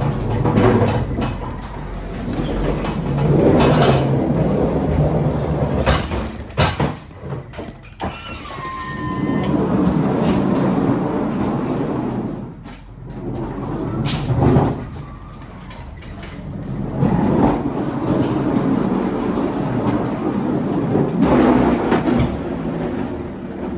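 Loaded pallets being rolled around the floor of a truck trailer: repeated rumbling rolls a few seconds long, with clanks and knocks in between and a brief squeal about eight seconds in.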